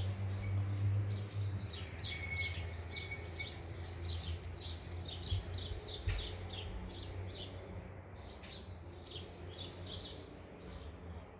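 Small birds chirping rapidly and repeatedly, over a low steady hum. A couple of thumps come about midway.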